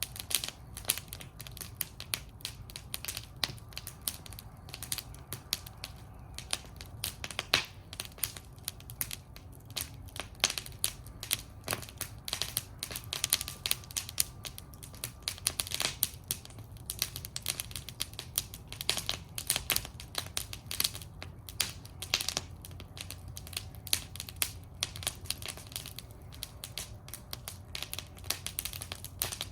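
Wood fire burning in a fire bowl, crackling with dense, irregular sharp pops and snaps over a low steady rumble of the flames.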